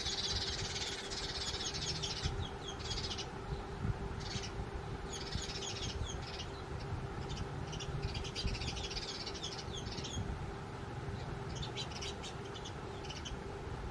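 House sparrows chirping: several bouts of rapid, repeated high chirps with short pauses between them, over a faint steady hum.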